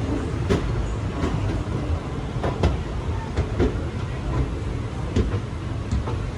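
Indian Railways passenger train running along the track, heard from on board: a steady low rumble with irregular sharp clicks and knocks from the wheels and carriage.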